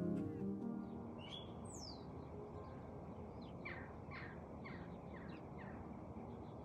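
Birds calling over a steady outdoor background noise: a couple of high sliding calls in the first two seconds, then a run of about five quick downward-sliding notes around the middle.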